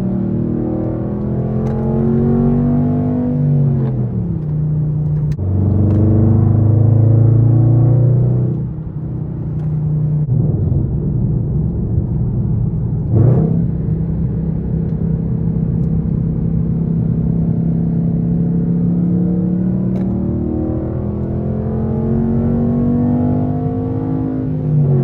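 Straight-piped Infiniti M56's 5.6-litre V8 exhaust while driving. The pitch climbs under acceleration and drops sharply at gear changes, around 4 s, around 8.5 s and near the end. A quick rev blip comes about 13 s in, and between the pulls the engine holds a steady drone.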